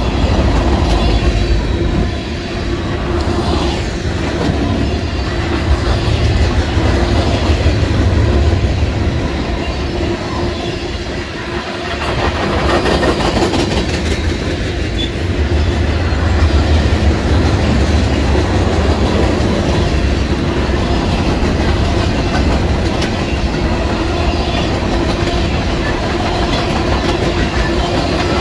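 Freight cars rolling past at close range: a steady rumble of steel wheels on rail with a rhythmic clickety-clack, and a faint steady ring from the wheels.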